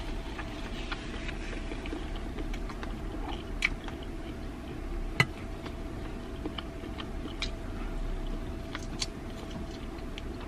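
A person chewing bakso (meatball) with scattered wet mouth clicks and lip smacks, one sharper click about five seconds in, over a faint steady hum.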